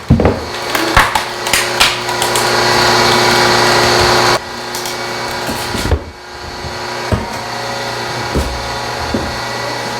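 Electric hydraulic log splitter's motor and pump running steadily, with sharp cracks of the log splitting in the first two seconds. The hum is loud for about four seconds, then steps down to a quieter steady hum with a few faint knocks.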